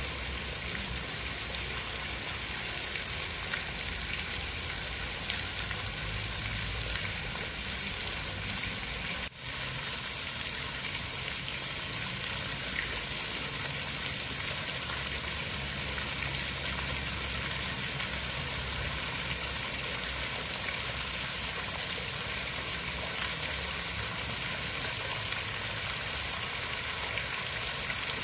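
Steady rain falling, an even hiss with a brief drop in level about nine seconds in.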